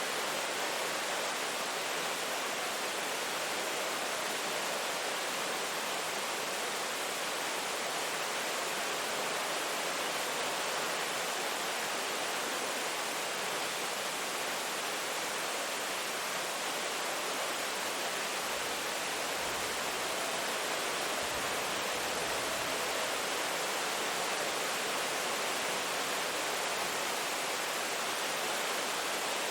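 Steady rain falling, an even unbroken hiss with no distinct drops or thunder standing out.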